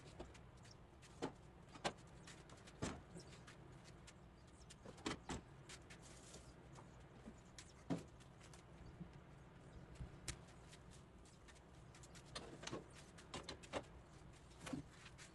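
Scattered light knocks and clicks, about a dozen spread irregularly, over a faint steady low hum: refrigerator parts such as shelves and drawers being handled.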